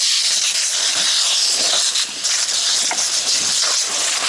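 Fire hose nozzle spraying water in a fine, wide spray pattern: a steady loud hiss that dips briefly about two seconds in.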